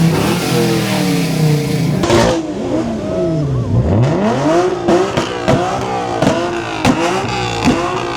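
Car engine revving hard, its pitch sliding down, then dipping and climbing again, then blipped up and dropping over and over in quick succession.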